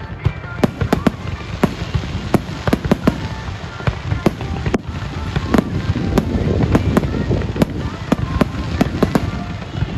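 Fireworks going off: sharp bangs in quick, irregular succession, roughly two or three a second, thickening and growing louder around the middle.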